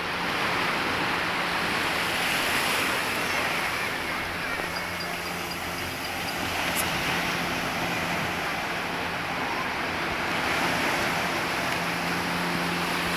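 Steady rush of wind and sea water, with a steady low motor hum underneath.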